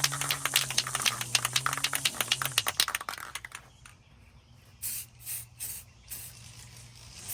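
Aerosol spray-paint can being shaken, its mixing ball rattling rapidly for about three and a half seconds. Then about four short hisses of spray paint.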